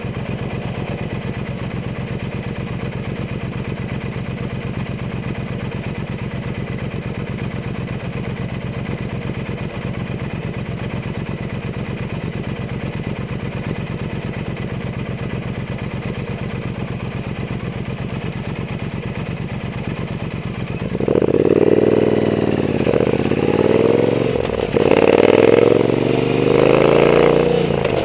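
Triumph Bonneville T120's 1200 cc parallel-twin engine through a Zard exhaust, idling steadily for about twenty seconds. It then gets louder as the bike pulls away, the pitch rising and dropping again with each gear change.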